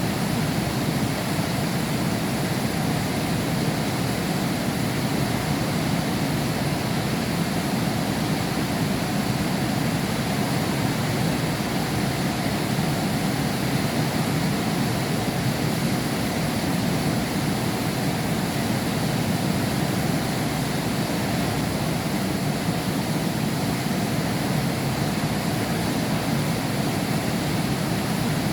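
Heavy rain pouring down steadily, heard from behind window glass: a dense, unbroken rush with most of its weight low down.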